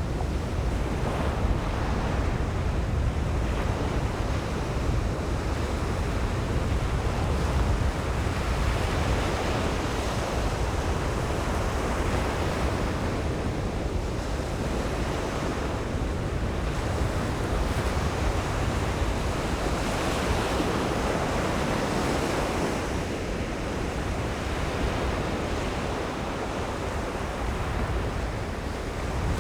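Ocean surf breaking on a beach, a continuous wash of waves that swells and eases every few seconds, with wind buffeting the microphone as a low rumble.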